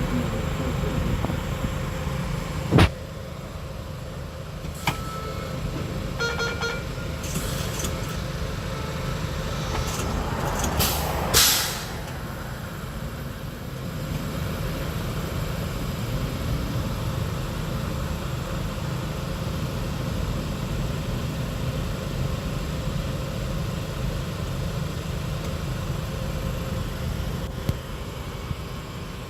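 Baltimore Metro Subway railcars standing with a steady low rumble; a sharp clank about three seconds in, a few short beeps, and a loud burst of air hiss near the middle.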